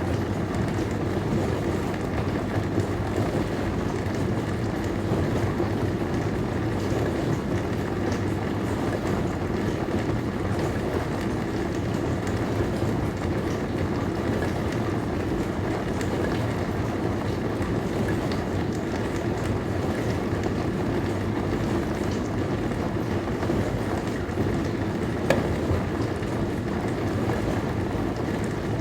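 Dishwasher running mid-cycle: a steady rush of water spraying inside the tub over a low pump hum, with a single brief click near the end.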